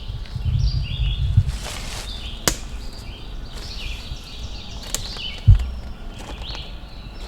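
Outdoor ambience of birds chirping repeatedly, with wind rumbling on the microphone for the first second and a half. There are a few sharp clicks, about two and a half and five seconds in, and a dull thud just after the second click.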